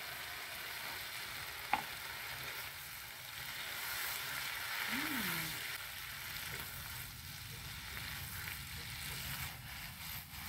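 Cabbage leaves and water spinach sizzling in a frying pan on a portable gas stove as they are stirred with a spatula, just seasoned with oyster sauce and salt. The sizzle is steady and swells about four seconds in, with a single sharp tap a little under two seconds in.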